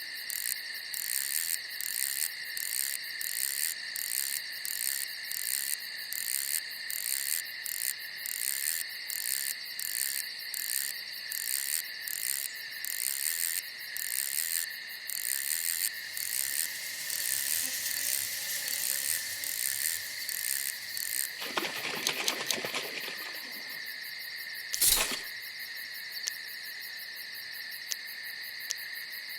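Night insects, crickets, chirring steadily, with a second insect pulsing about twice a second through the first half. A brief rustle comes about two-thirds of the way in, then a single sharp knock.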